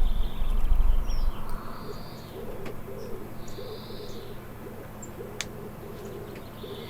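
Greenfinch wheezing, drawn-out high notes under a second long, repeated every second or two, while pigeons or doves coo low underneath. A low rumble fills the first second or so and then stops.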